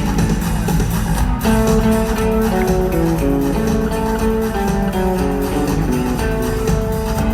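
Live rock band playing an instrumental passage with electric guitars, bass and drums, with no vocals. Guitar notes are held and change every half second or so over a steady drum beat.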